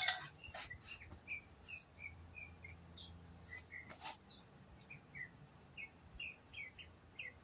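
A songbird calling in a run of short, high chirps, about two or three a second. A few faint taps sound about half a second and four seconds in.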